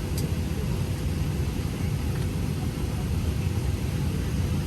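Steady low rumble in the cabin of a Boeing 737-700 on the ground before takeoff, with a faint steady hum above it.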